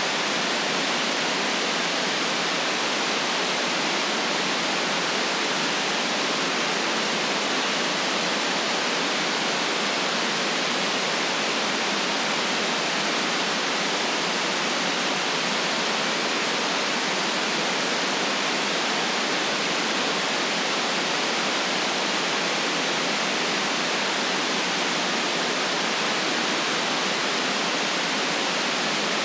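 Continuous synthetic white noise: a steady, even hiss with no rhythm or change, with no deep bass and no very high treble.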